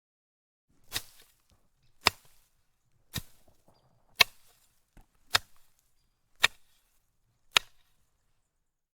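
A series of seven sharp impacts, evenly spaced at about one a second, each with a brief trailing clatter, and a fainter knock just before the fifth.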